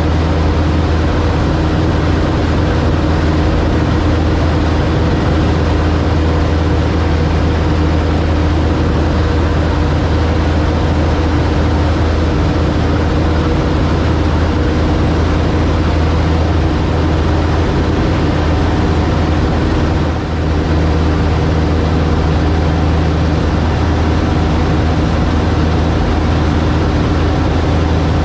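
Piston engine and propeller of a Cub light aircraft in steady cruise, a loud even drone as heard in flight, with a brief dip in loudness about twenty seconds in.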